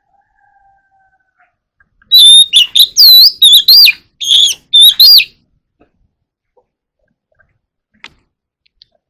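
Oriental magpie-robin singing a loud burst of clear whistled notes with sweeping glides for about three seconds, after a faint thin whistle at the start.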